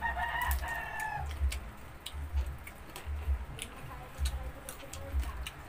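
Close-up chewing and crunching of crispy deep-fried pork knuckle skin: scattered crackly clicks over a soft low pulse about once a second. A short high chirping call sounds in the first second.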